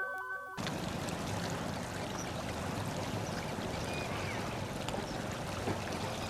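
Steady wash of flowing water, with a few faint high chirps, after a synth music tune cuts off about half a second in.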